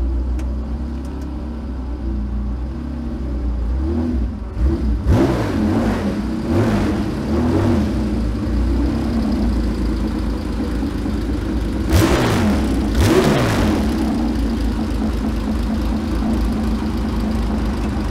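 Porsche 911 Carrera RSR race car's carbureted air-cooled flat-six running at idle as it rolls in, with a handful of quick throttle blips, several about five to eight seconds in and two more around twelve to thirteen seconds.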